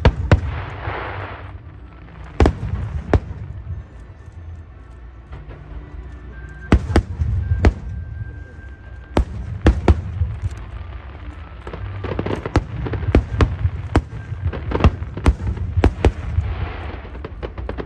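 Aerial fireworks display: a rapid, irregular string of sharp bangs from shells bursting over a low rumble. There are stretches of hissing crackle about a second in and again near the end.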